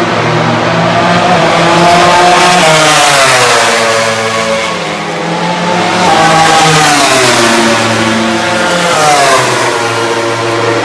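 MotoGP racing motorcycle engines at high revs on track, the pitch climbing and falling several times as the bikes accelerate, shift and go past.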